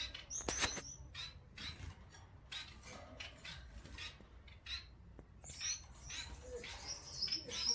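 Pet birds chirping: a string of short, sharp chirps and clicks, turning into quicker high, warbling chirps in the last two seconds.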